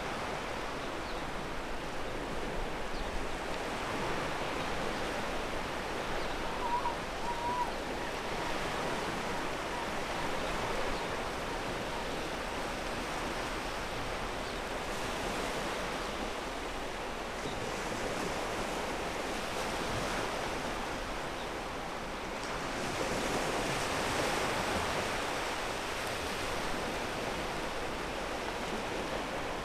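Ocean waves washing onto a pebble beach: a steady surf hiss, with one wave swelling louder about three-quarters of the way through.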